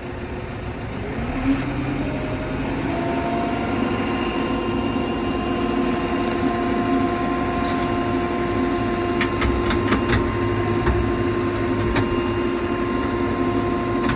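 New Holland Powerstar 75 tractor's diesel engine running; about a second in the throttle is raised and the engine climbs to a higher steady speed. A run of short sharp clicks comes about two-thirds of the way through.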